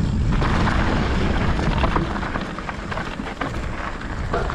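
Mountain bike riding fast down a dirt trail: wind rushing over the microphone and tyres rolling over dirt, with scattered small clicks and rattles. It eases slightly in loudness toward the end.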